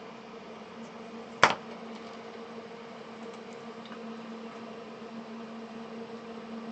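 A steady low hum runs throughout, with one sharp click, like a small tool being set down or tapped, about a second and a half in.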